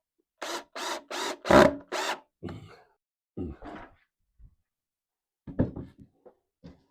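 Tool work on a 2x6 lumber frame: five quick noisy strokes on the wood in the first two seconds, the fourth the loudest, then a few lighter knocks and handling sounds.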